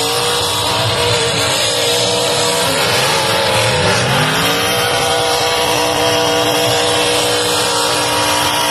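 Demolition derby cars' engines running loudly together, with one engine's pitch dipping and then rising again about three to four seconds in as it revs.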